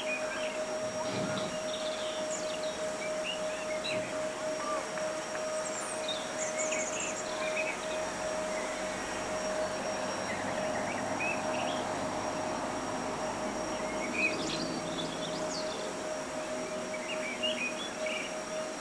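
Small birds chirping on and off over a steady background hiss, with a constant faint tone running beneath.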